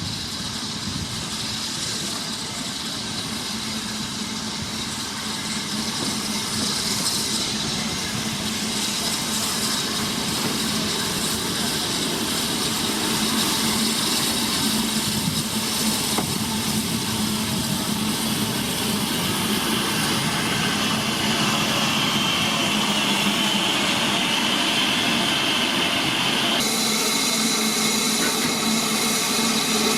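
Heritage steam railway train at close range: a steady rushing noise with a low hum that builds over the first dozen seconds. A higher hiss joins in later and cuts off suddenly a few seconds before the end.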